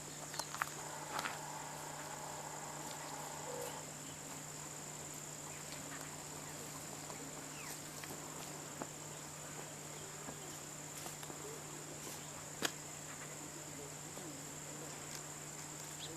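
Steady high-pitched insect chirring, like crickets, over a low steady hum, with a few faint chirps and scattered small clicks; one sharper click about three quarters of the way through is the loudest sound.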